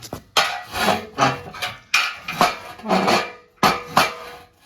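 Homemade steel lawn-tractor snow plow being worked by hand on its pivots, its metal parts clanking together about twice a second, each clank ringing briefly.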